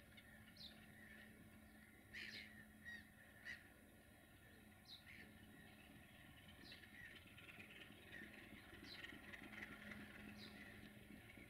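Very faint scattered bird calls, each a short falling chirp, every second or two. Under them runs a low steady hum from an approaching 060-DA (LDE2100) diesel locomotive, growing slightly louder near the end.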